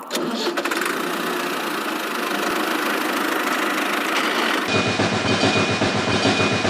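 A small motor-driven machine running steadily. About two-thirds of the way through, the sound cuts abruptly to a different steady running noise with a fast low pulsing and a thin high whine.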